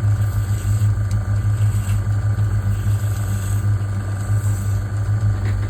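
Metal lathe running steadily with an even motor hum and a few faint ticks.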